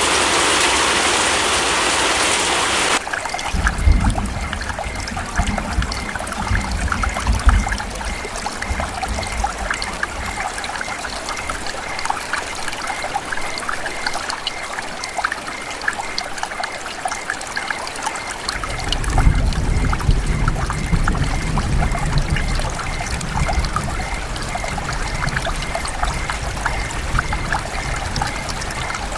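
Rain falling in a forest: a dense, even hiss for about the first three seconds, then an abrupt change to rain dripping and trickling with many scattered drops tapping. A low rumble comes and goes twice.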